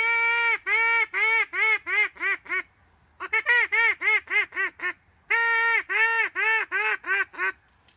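Duck quacking in three descending runs. Two of them open with one long quack followed by a string of shorter, quicker quacks, in the pattern of a hen mallard's hail call.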